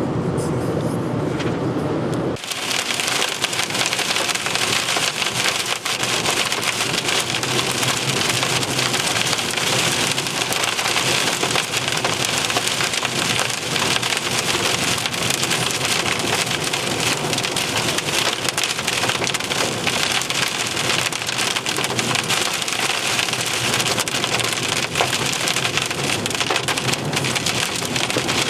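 Vehicle road noise for about two seconds, then an abrupt change to a steady, dense hiss of heavy rain falling in a thunderstorm.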